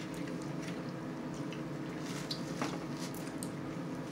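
Wet, squishy chewing and mouth sounds of people eating chicken by hand, with scattered small clicks, over a steady low hum.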